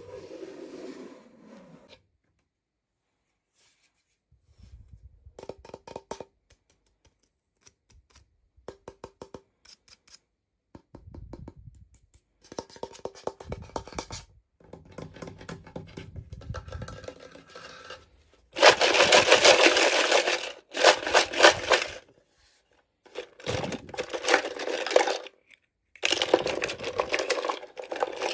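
Hands unpacking a small toy: clicks, scrapes and light taps of plastic pieces, then louder rustling of packaging in bursts of a second or two through the second half.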